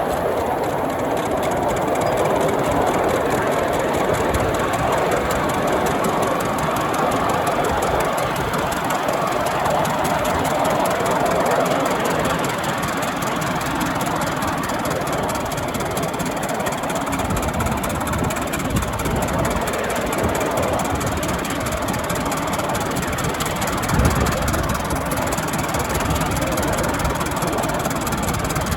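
5-inch gauge miniature locomotive running along the track, a steady mechanical running sound with a heavier low rumble in the second half and one brief louder knock near the end.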